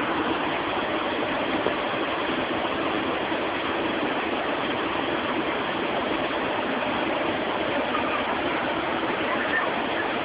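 A river in flood after torrential rain, its swollen water rushing past as a steady, unbroken noise.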